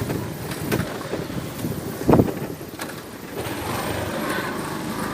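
Road vehicle running along with steady engine and road noise, and one short thump about two seconds in.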